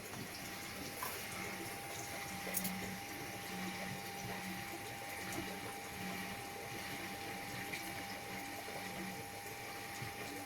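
Washing machine running with water splashing and flowing inside, over a faint steady whine and a low hum that comes and goes.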